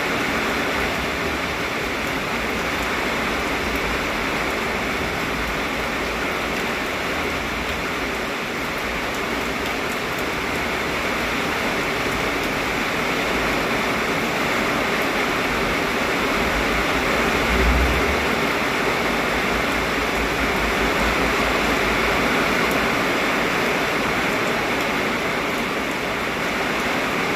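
Heavy rain falling steadily, a continuous dense hiss, with strong wind rumbling low underneath. One brief low thump comes about two-thirds of the way through.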